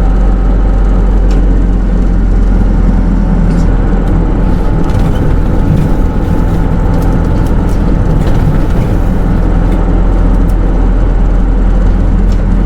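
Cabin sound of a Hino Rainbow II SDG-KR290J1 city bus with automatic transmission running: a steady diesel engine drone and a low hum, with a few faint rattling ticks from the body.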